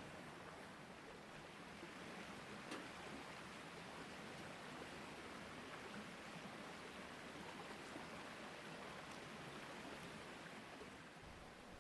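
Faint, steady rushing of a mountain stream, with a few light clicks, the sharpest about three seconds in.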